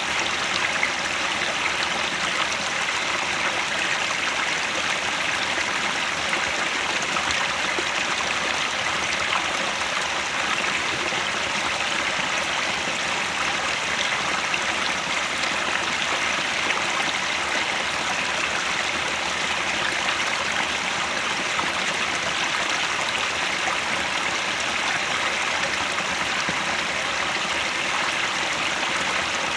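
Headwater mountain stream flowing steadily over rocks, an even rushing and burbling of water with no breaks.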